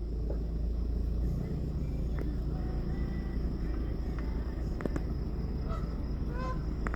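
A few faint, short Canada goose honks in the second half, over a steady low rumble.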